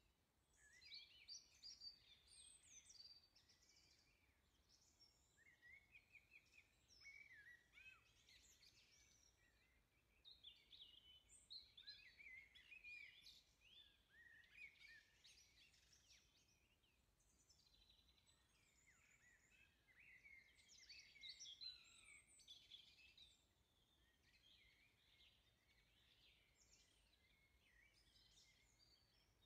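Faint birdsong: a busy, irregular run of quick high chirps and short trills, with a lull in the middle.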